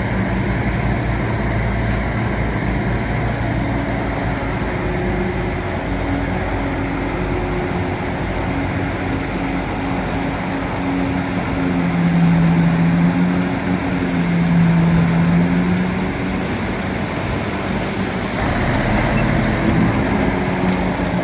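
Bulldozer's diesel engine running continuously. Its note shifts as the load changes, dropping lower and getting louder for a few seconds in the middle.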